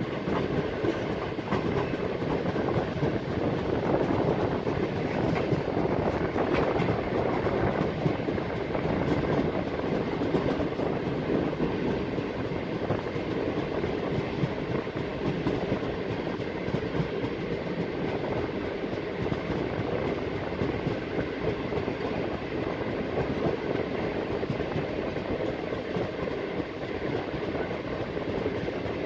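Jinnah Express passenger train running along the track: a steady rumble of the moving coaches and wheels on the rails.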